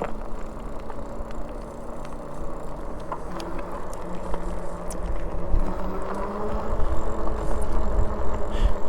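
Magicycle Cruiser e-bike's hub motor whining as the bike pulls away from a stop, its tone shifting higher about three seconds in as it picks up speed. Wind rumble on the microphone grows louder in the second half.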